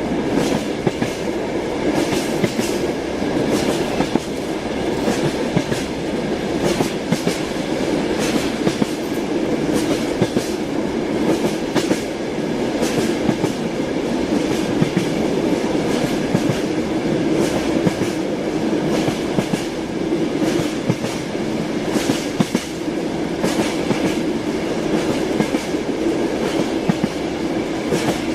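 Moving train with its wheels knocking steadily over the rail joints: a continuous rumble broken by many sharp clicks.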